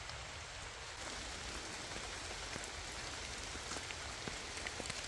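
Steady rain falling on rainforest foliage, with scattered faint drip ticks.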